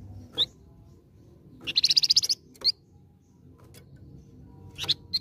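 Flamboyan songbird singing: a few sharp, high chirps and one rapid trill of about a dozen notes lasting under a second.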